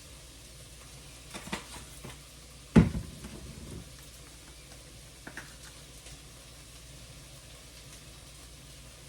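A hard object knocks down on a kitchen counter about three seconds in, with a few lighter clicks of handling around it, over a faint steady sizzle from a sauce cooking in a pan on the stove.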